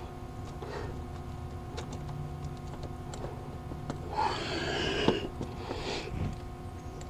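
Faint clicks and knocks of a socket and extension on a starter mounting bolt as the starter is wiggled to get the bolt to thread. About four seconds in come two short breathy hisses, with a sharp click between them, over a steady low hum.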